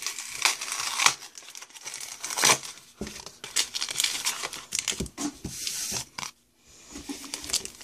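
Foil Pokémon booster pack being torn open and crinkled by hand, in irregular crackling rips and rustles, with a brief pause near the end.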